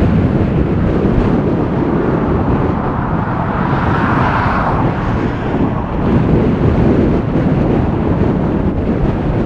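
Strong wind gusting and buffeting the microphone in a loud, steady rush that swells about four seconds in.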